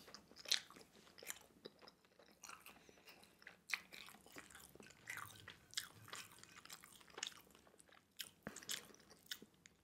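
A person chewing a mouthful of pan-fried rice roll, quiet and close, with irregular small mouth clicks.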